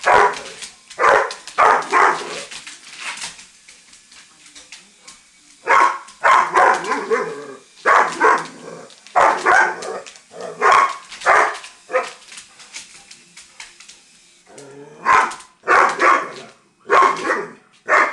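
Doberman barking in loud clusters of rapid barks, with short pauses between them and a longer quiet spell about twelve seconds in.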